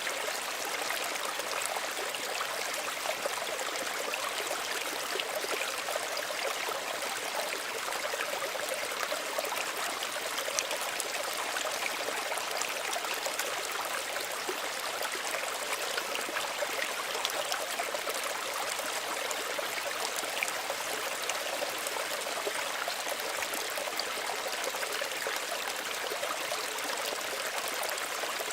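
Small stream of running water, trickling and babbling over stones: a steady, even rush with many small splashes.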